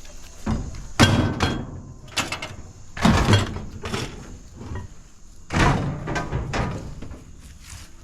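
Pieces of scrap metal being dropped into a pickup truck bed: a run of heavy metal clanks and thuds with short ringing tails. The loudest come about a second in, at three seconds and at five and a half seconds, with lighter knocks between.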